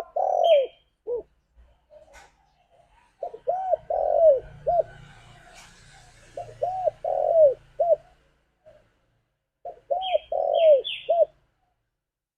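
Spotted dove cooing: four phrases of a few rounded coos each, a couple of seconds apart, each with one longer note in the middle. A few short high chirps come in near the start and again toward the end.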